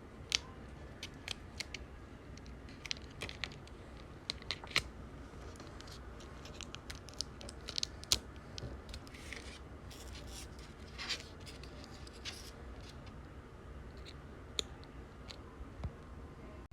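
Scissors cutting paper: irregular short, sharp snips, with a few longer rustles of paper a little past the middle.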